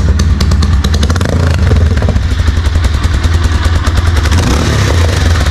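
Bajaj Pulsar motorcycle engine running in neutral with only the bend pipe fitted and no silencer, a loud, steady open-pipe exhaust note of rapid firing pulses.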